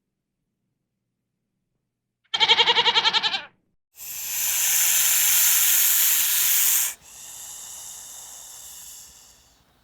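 A single short wavering bleat from a farm animal, then a loud breathy hiss for about three seconds that drops suddenly to a quieter hiss and fades out.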